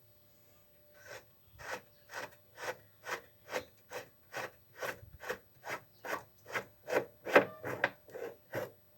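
Repeated rasping strokes of a hand tool or part rubbing back and forth against something hard, about two strokes a second, beginning about a second in and getting louder toward the end.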